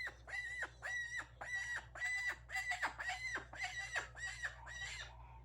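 Pet parrot calling over and over in short, harsh, evenly spaced squawks, about two a second, stopping near the end. The calls come while the bird is frightened by a shark on the television, so they are alarm calls.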